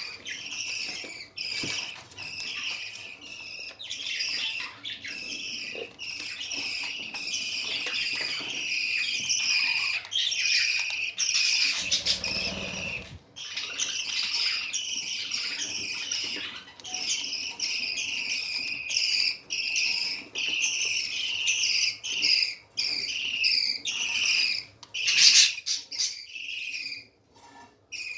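Budgerigars chirping and chattering continuously, many quick short chirps a second, with a brief rustle about twelve seconds in.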